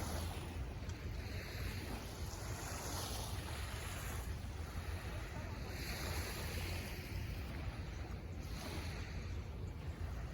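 Surf washing onto the beach, the hiss of breaking waves swelling and fading every few seconds, over a steady low rumble of wind on the microphone.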